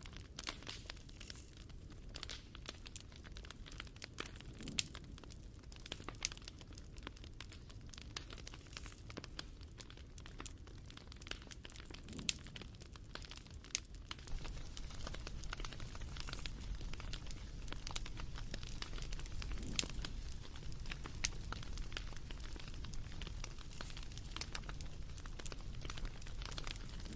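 Wood fire crackling, with irregular sharp pops and snaps over a low steady rush that grows a little louder about halfway through.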